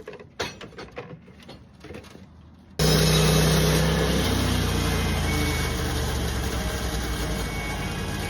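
A few light knocks and clicks, then about three seconds in a sawmill's engine comes in suddenly, loud, and runs steadily with a hissy edge, easing off slightly.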